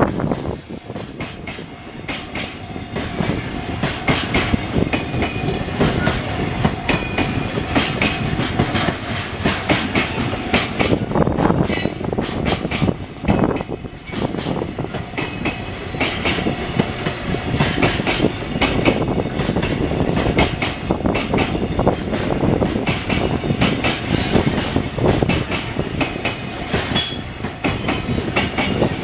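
A train passing close by at a level crossing, its wheels clattering over the rail joints in a steady run of clicks. The sound goes on without a break.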